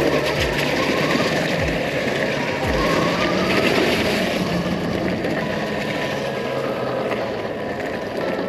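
Steady rushing noise of riding a bike over rough, muddy ground: wind buffeting the microphone and tyres rolling.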